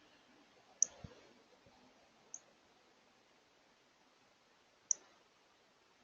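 Northern cardinal giving sharp, high chip notes, three of them a couple of seconds apart, with a soft thump just after the first.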